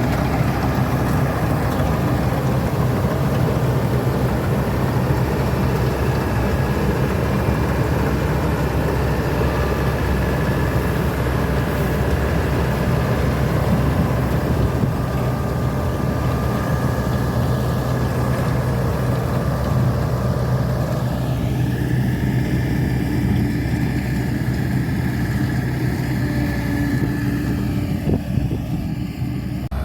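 Combine harvester running steadily, a low engine hum under a constant mechanical clatter and a faint high whine. The hiss thins out about two-thirds of the way through.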